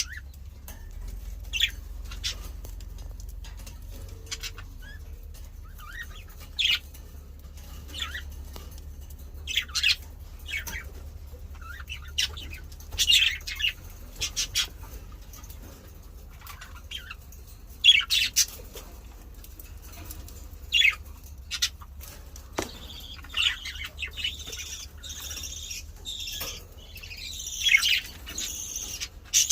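Female English (show) budgerigar calling: short, sharp chirps every second or two, breaking into a continuous chattering warble near the end.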